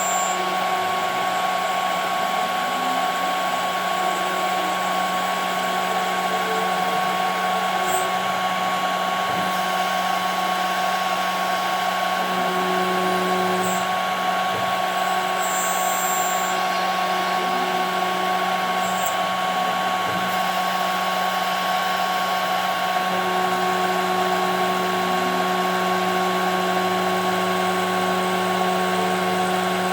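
CNC router spindle running steadily while machining 5 mm plexiglass, a constant high whine over a low hum.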